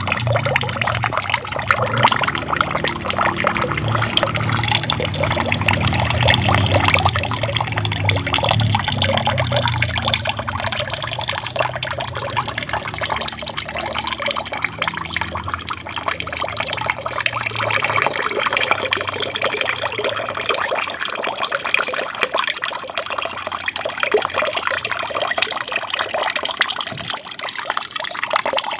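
Small aquarium waterfall, water trickling and splashing steadily, with a low rumble underneath that fades out about halfway through.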